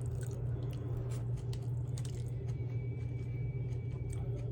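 Someone chewing and biting food, with scattered small wet clicks and crunches, over a steady low hum. A faint thin high tone sounds from about the middle to near the end.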